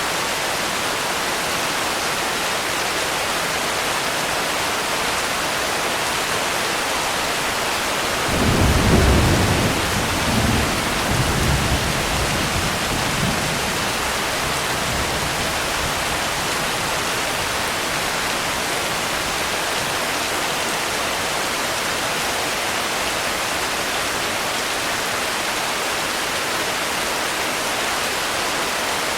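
Steady rain falling, an even hiss, with a low roll of thunder that breaks in about eight seconds in and rumbles away in a few smaller swells over the next five seconds.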